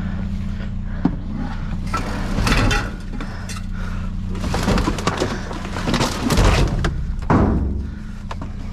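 Discarded junk being shifted and pulled around inside a metal dumpster: irregular knocks, clatter and scraping, over a steady low hum.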